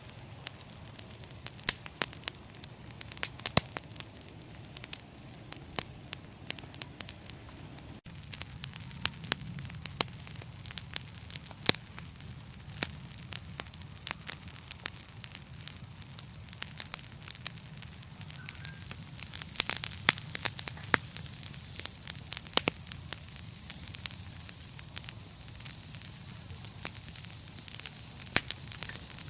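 Wood fire in a fireplace crackling, with frequent sharp, irregular pops over a steady low rumble of the flames.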